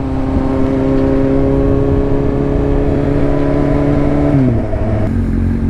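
2007 Kawasaki Z1000 inline-four engine running at a steady cruise, with rushing wind noise. About four and a half seconds in, the engine pitch drops as the revs fall, then it holds steady at a lower pitch.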